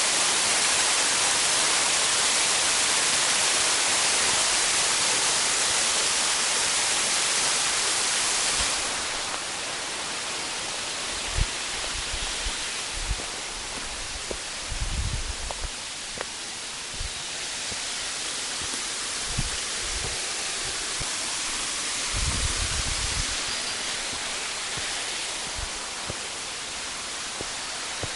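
Steady rushing noise of a waterfall. It drops somewhat in level about nine seconds in, and a few brief low thumps come through in the middle.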